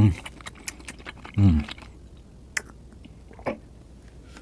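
A man chewing a mouthful of raw fish close to the microphone, with small wet mouth clicks. Two short low hums that fall in pitch come from him, one at the start and one about a second and a half in.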